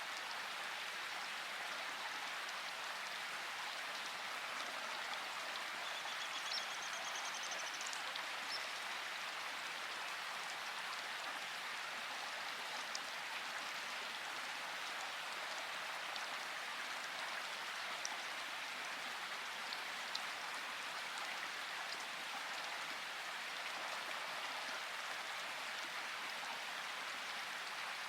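Steady rain falling, an even hiss with occasional single drop ticks. A faint high trill sounds briefly about six seconds in.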